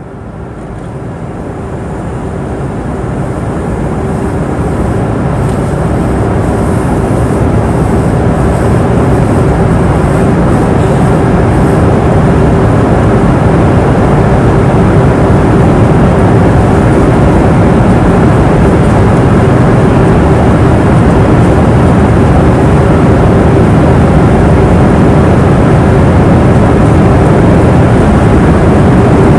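Airplane cabin noise in flight: a steady, loud rush of engine and airflow noise with a low steady hum through it. It fades in over the first few seconds, then holds even.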